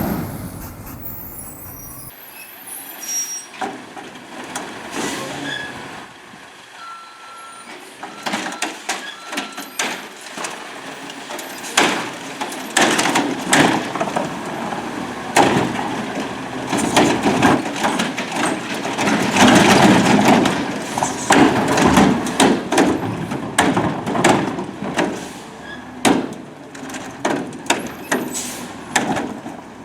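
Autocar garbage truck at work: the engine runs under a long string of sharp metallic clanks and bangs, sparse at first and then coming thick and fast for most of the stretch.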